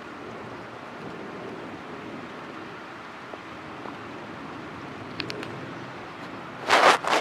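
Steady outdoor wind and rain noise during a thunderstorm. A few faint clicks come about five seconds in, and a loud, brief noise in two quick pulses comes near the end.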